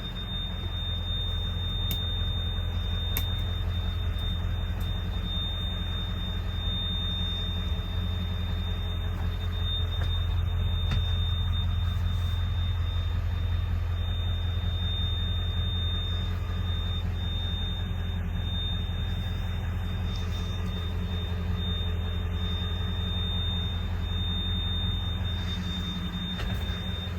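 Turbo diesel ambulance engine idling steadily, a low even rumble, with a thin steady high-pitched whine over it. The rumble eases off near the end.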